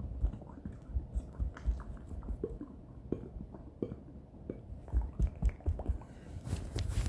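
Close-miked ASMR mouth sounds: irregular wet clicks and smacks, several a second, over soft low thumps, with a louder noisy burst near the end.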